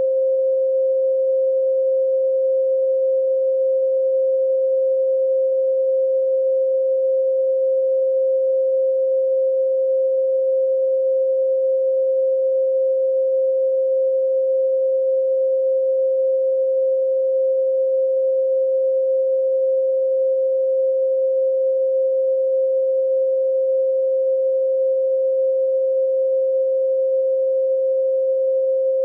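Steady 528 Hz pure sine tone: one unwavering pitch with no overtones.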